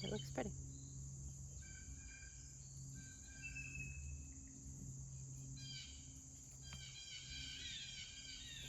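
Birds chirping in short, repeated calls and whistles, more of them in the last few seconds, over a steady high-pitched insect buzz.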